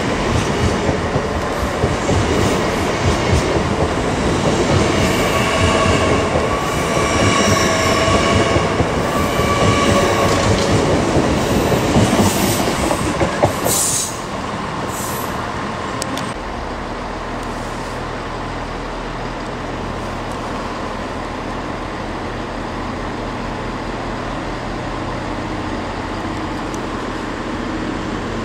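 An LNER Azuma class 80x express train passing close along the platform: loud rumbling rush of wheels and air, with a whining tone in the middle of the pass. About 14 seconds in it gives way to a quieter, steady low hum as another Azuma approaches.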